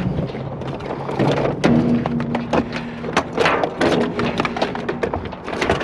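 Irregular knocks and clunks of hard objects being handled and set down, over a faint steady low hum.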